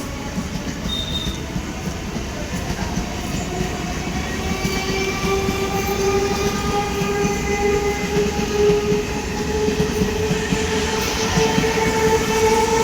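Indian Railways train running with a steady rumble of wheels on the track, with long, drawn-out tones over it that rise slightly in pitch and grow stronger. The whole sound gets louder toward the end.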